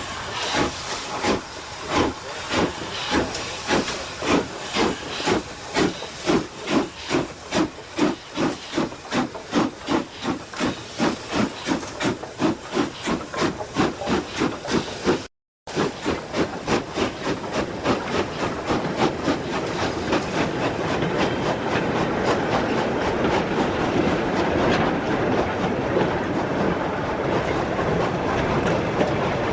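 GER N7 0-6-2 tank steam locomotive working hard, its exhaust beats quickening from about two a second to about three a second. After a short dropout about halfway, the beats run together into a continuous rush of steam as the engine gathers speed.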